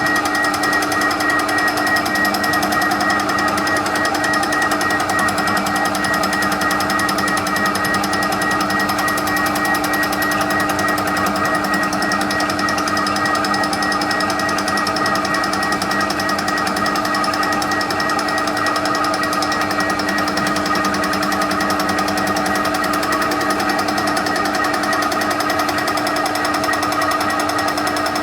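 TOS milling machine fly-cutting the face of a cast-steel exhaust manifold on a light pass of one thou: steady machine running with a fast, even tapping from the cutter throughout.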